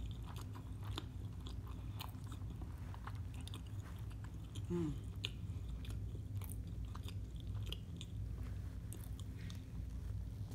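Close-miked chewing of a fried-shrimp po' boy on french bread: irregular wet mouth clicks and soft crunches. There is a short low hummed "mm" about halfway through, and another bite is taken near the end.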